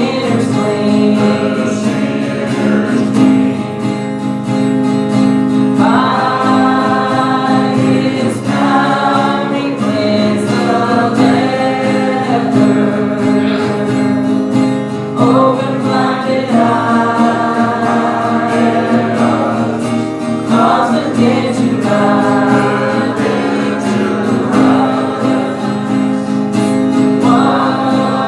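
A church congregation singing a hymn together, with instrumental accompaniment, the sung notes held and changing every second or so.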